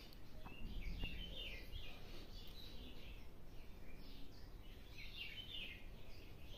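Faint bird chirping, short scattered calls one after another, over a low background rumble.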